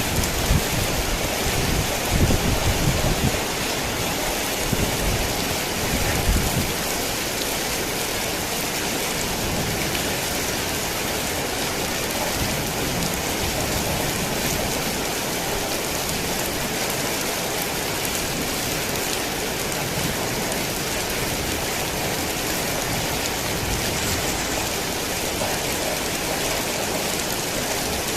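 Heavy rain falling steadily, with low rumbles of thunder in the first six seconds or so that then fade, leaving only the even hiss of the rain.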